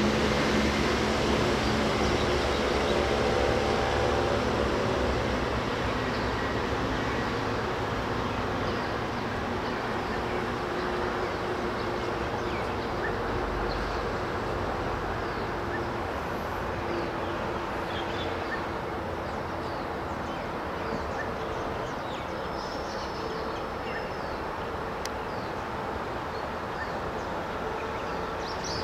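Electric train running off-camera, a dense rumble with a steady hum at first that fades slowly as it draws away. Birds chirp faintly later on.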